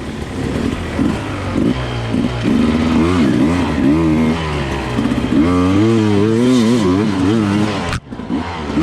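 Dirt bike engine revving up and down in rapid throttle blips under load. There is a brief sharp drop in engine sound near the end before it picks back up.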